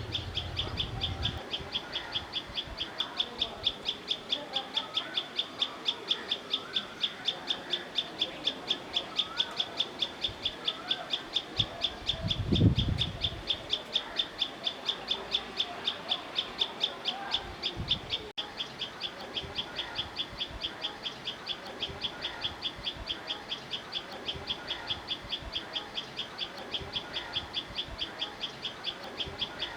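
Birds calling: a high, evenly repeated chirp, about three a second, with other birds' short warbling calls fainter beneath it. A single low thump sounds about twelve seconds in.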